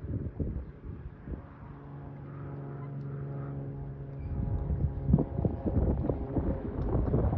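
An aircraft's engine humming at a steady pitch, heard through wind buffeting the microphone. The hum fades after a few seconds while the wind gusts grow louder.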